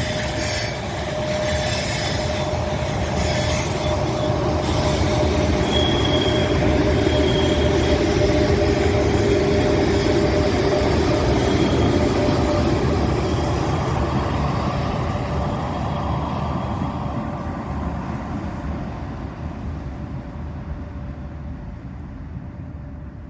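Freight train rolling past: a steady rumble of wheels on rail with a few brief high flange squeals about six seconds in, swelling and then fading away as the train moves off.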